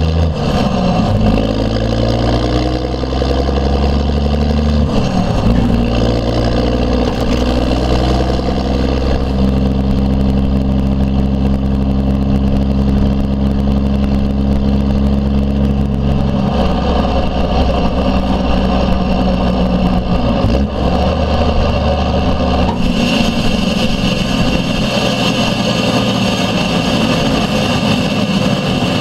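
1992 Dodge D350's 12-valve Cummins inline-six turbo diesel running under way through a straight-piped 5-inch exhaust stack. Its note changes in steps several times as the engine speed changes.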